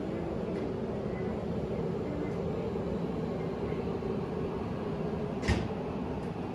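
E6 series Shinkansen train moving slowly along the platform: a steady low rumble and hum of its running gear and motors. One sharp clack stands out about five and a half seconds in.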